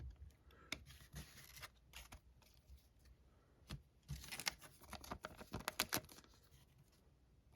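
Faint handling of chrome baseball cards and plastic: scattered light clicks and soft rustles as cards are shuffled through and slid into a sleeve, busiest about four to six seconds in.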